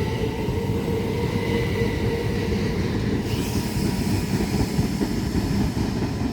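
Class 375 Electrostar electric train running out of the station: a steady rumble of wheels on the rails with a faint whine that fades over the first few seconds, and a higher hiss joining about three seconds in.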